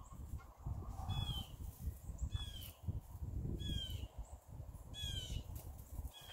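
A bird calling over and over, a short falling note repeated about every second and a quarter, four or five times, over a low rumble.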